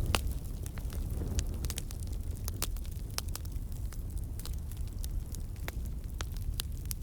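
Campfire burning, a steady low rumble of flames with many irregular sharp crackles and pops, the loudest pop just after the start.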